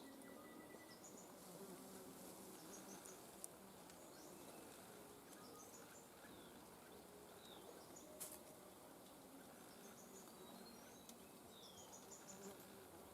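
Faint outdoor ambience: scattered short, high chirps from small birds over a low, steady background hum, with a couple of soft clicks.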